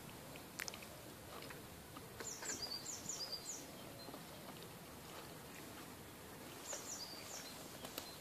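Faint outdoor ambience with a small bird calling in two short runs of high chirps, one a couple of seconds in and one near the end. A light click about half a second in.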